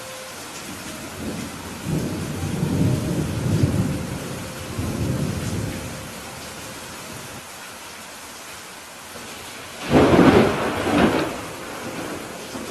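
Steady rain, with a low rolling rumble of thunder from about two to five seconds in, then a loud, sharp thunderclap about ten seconds in that rumbles on for about a second.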